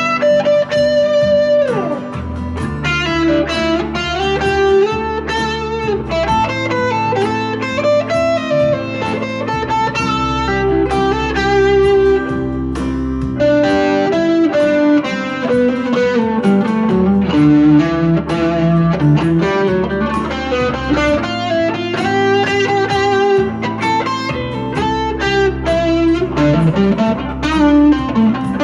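Electric guitar, a Squier Jaguar's single-coil pickups through a JHS NotaKlon overdrive into a Vox AC10 amp, playing improvised single-note lead lines with string bends over a backing track of chords.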